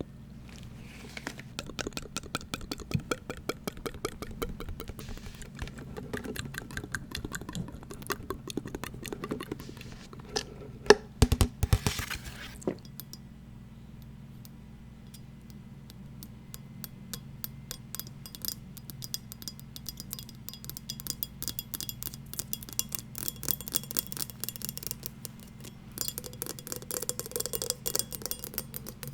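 Fast tapping and scratching on small hard objects: many light clicks a second, with a louder cluster of taps about eleven seconds in, a sparser stretch just after, and quicker, brighter tapping in the second half. A low steady hum runs underneath.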